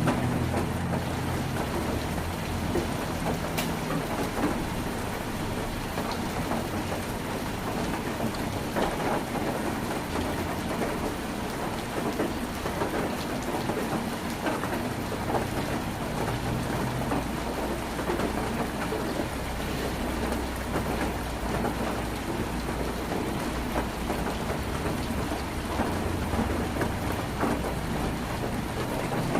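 Heavy rain drumming steadily on a tin roof, with a low rumble underneath that fades over the first few seconds and returns faintly later.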